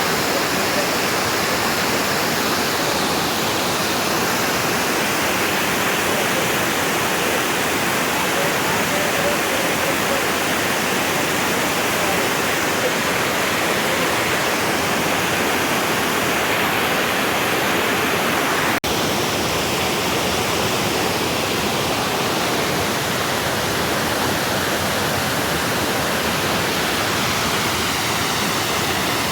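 Nanuoya Waterfall, a 60-metre cascade down rocky steps, rushing with a steady, full roar of falling water.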